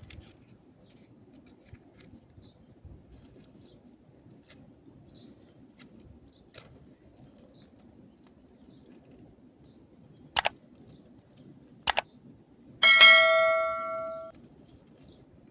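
Two sharp knocks, then a loud metallic clang that rings on for about a second and a half before fading, like a hammer striking metal.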